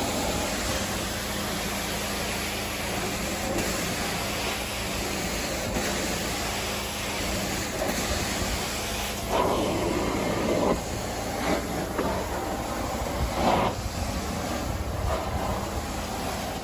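Carpet-cleaning extraction vacuum running with a steady hiss and low hum, louder in surges about nine seconds in and again a few seconds later.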